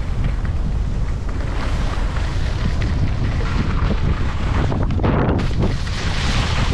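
Wind buffeting the microphone, a loud low rumble with a hiss over it. A brighter hiss comes in about five seconds in.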